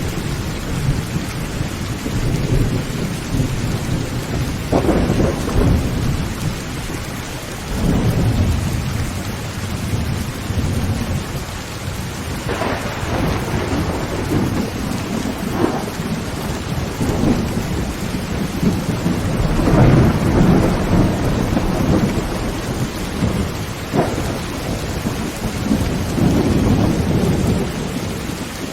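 Heavy rain drumming on a tin tent roof under continuous rolling thunder, with several sharper thunder cracks spread through the storm.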